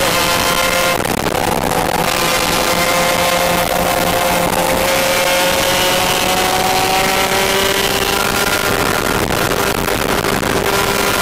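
A car engine running steadily, its pitch sagging slowly lower.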